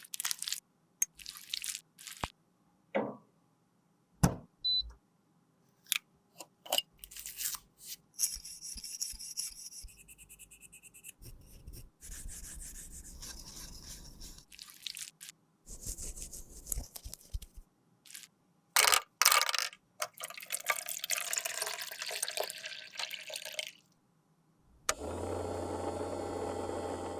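Close-up handling sounds of a broken MAC lipstick being worked with small tools: scattered clicks and taps, and stretches of scraping and stirring as the product is cut, crushed and mixed. Near the end a steady hum with hiss runs for about two seconds.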